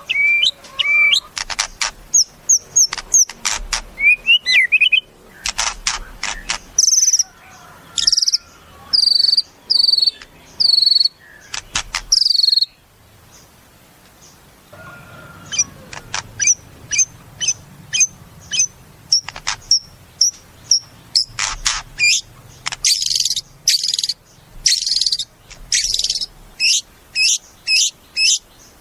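White-rumped shama (murai batu) singing a varied song of whistled phrases, fast clicking rattles and quickly repeated sharp notes, with a pause of a few seconds around the middle.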